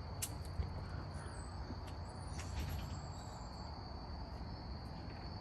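Insects trilling: one steady high-pitched tone, over a low steady rumble and a few faint clicks.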